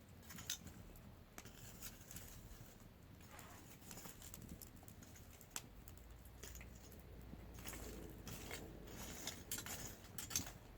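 Faint, scattered light clicks and taps over a low steady hum, coming more often near the end.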